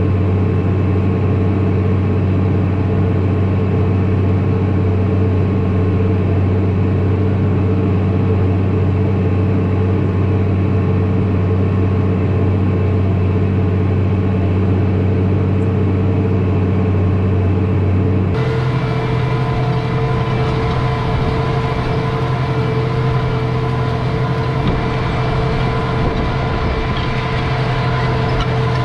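Tractor engine running steadily at a constant pitch. About two-thirds of the way through the sound switches abruptly to a different, brighter steady engine note.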